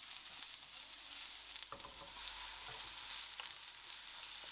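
Chopped garlic and onion sizzling in hot oil in a frying pan, with a couple of faint clicks of stirring.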